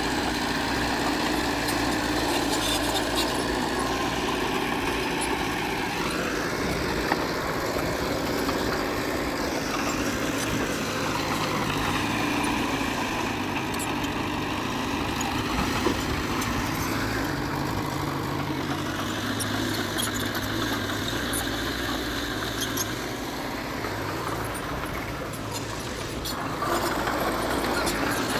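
Heavy diesel earthmoving machinery running steadily, the engine pitch rising and falling a few times as the load changes, with a brief drop and then a surge near the end.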